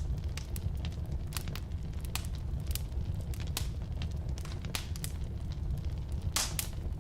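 Firewood burning in a fireplace: a steady low rumble of flames with frequent irregular crackles and pops, one louder, longer pop about six seconds in.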